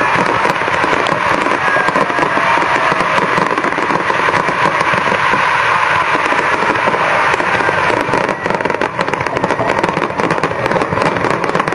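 Aerial fireworks display: a dense, continuous crackling of many shell bursts, loud and unbroken throughout.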